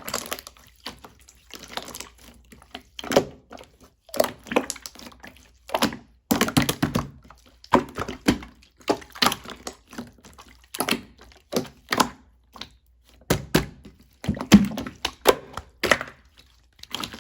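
Blue slime being worked by hand, making irregular sticky clicks and pops, often in quick clusters.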